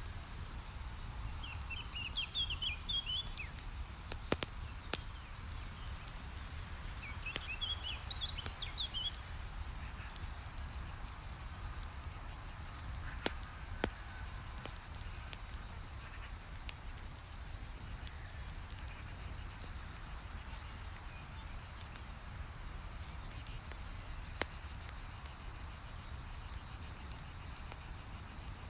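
Campfire crackling with a few sharp, widely spaced pops over a steady low rumble and a faint high hiss. A bird twitters twice in quick bursts of high notes during the first ten seconds.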